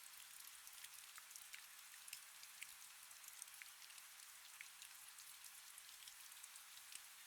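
Faint, steady rain: an even hiss with many small, scattered raindrop ticks.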